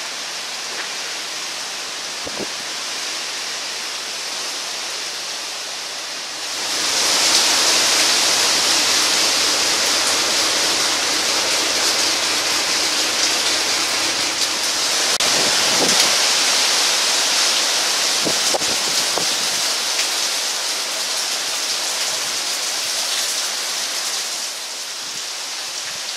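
Hurricane wind and driving rain, a steady noise of gusting wind and rain on the trees and buildings. About six seconds in, the rain grows sharply louder and hissier; it drops back near the end.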